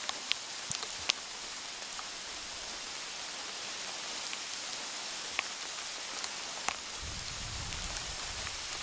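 Sleet and freezing rain falling: a steady hiss with irregular sharp ticks of pellets striking. A low rumble comes in near the end.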